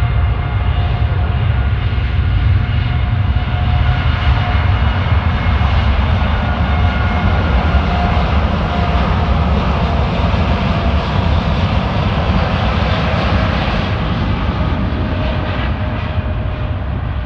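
Boeing 787-8 jet airliner on its departure, its Rolls-Royce Trent 1000 turbofans at takeoff power: a loud steady rumble with whining engine tones above it, easing a little near the end.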